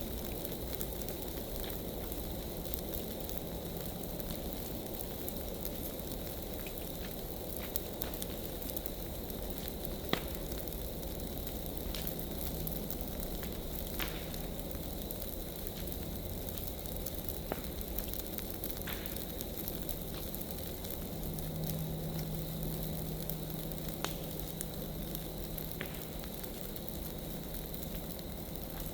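Big piles of dry leaves burning: a steady rush of flame with scattered sharp crackles and pops, about one every second or two.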